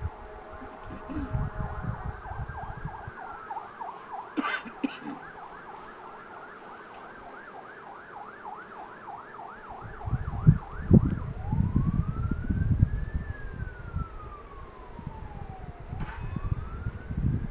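Electronic emergency-vehicle siren: a slow rising and falling wail that switches to a fast yelp for several seconds, then back to the slow wail. A low rumbling noise joins from about ten seconds in, and there is a sharp click about four seconds in.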